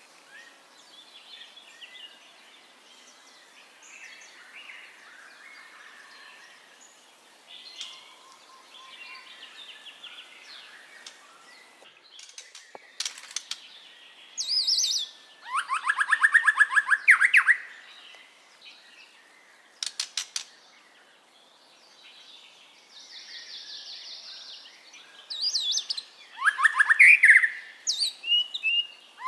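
White-rumped shama (murai batu) singing: soft, varied twittering for the first dozen seconds, then loud phrases of fast repeated notes and sweeping whistles about halfway through and again near the end. A few sharp clicks are heard between the phrases.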